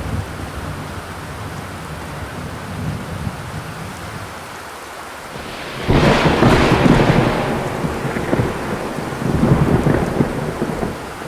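Rain drumming steadily on a zinc roof, with a low rumble underneath. About six seconds in a sudden loud rumbling surge breaks in and fades over about two seconds, and a second surge follows near ten seconds.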